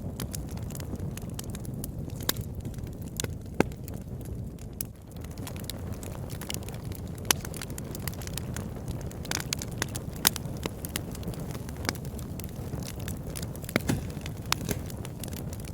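Fire burning in a fireplace, crackling with irregular sharp pops over a steady low rumble of the flames.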